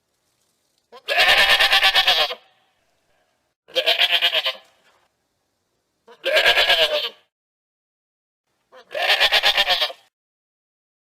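Goat bleating four times, each a quavering bleat of about a second, the first a little longer, with pauses of a second or two between calls.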